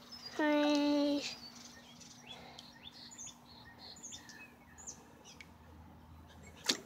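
Faint birds chirping in the background, short high falling chirps, after a brief steady held tone about half a second in; a sharp click near the end.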